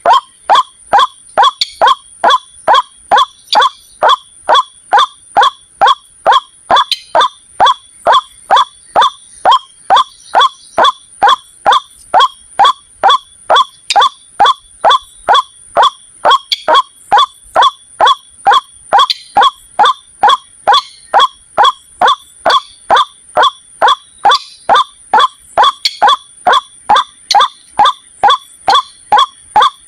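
White-breasted waterhen lure call: one short, loud note repeated evenly about twice a second without a break, over a faint steady high whine.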